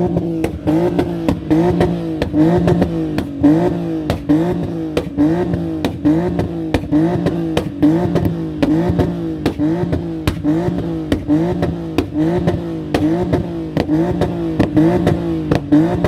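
Car engine revved over and over in quick, even blips, a little under two a second, each a short rise in pitch that drops back, with sharp cracks throughout.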